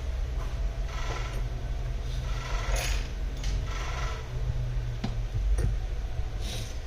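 Small metal tools and parts being handled on a workbench: scattered scrapes and clicks, with a few louder scraping strokes in the first half, over a steady low hum.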